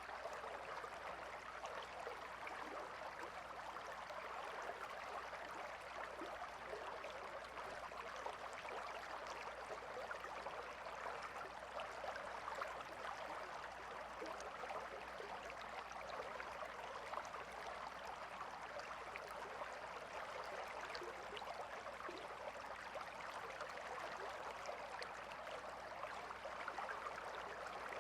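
Calm river flowing, a steady babble of water with many small splashes.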